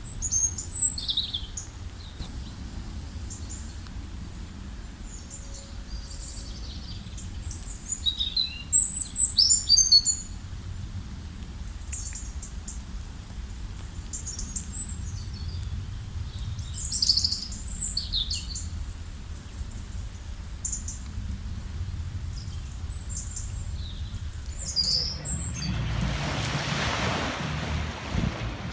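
Small birds chirping and calling in short clusters of high notes over a steady low rumble. Near the end a broad rush of noise swells in.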